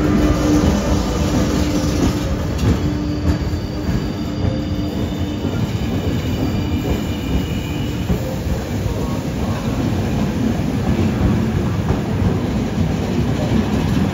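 Passenger train's coaches rolling slowly past, with a steady rumble of wheels on rails and some clicking. About three seconds in, thin high wheel-squealing tones come and go for several seconds.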